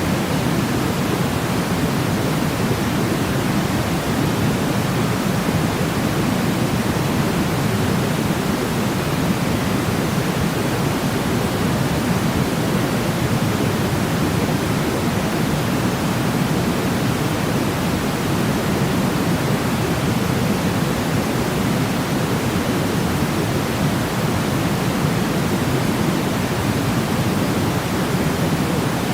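Steady sleep-sound noise, an even hiss with most of its weight low, like pink noise, unchanging throughout.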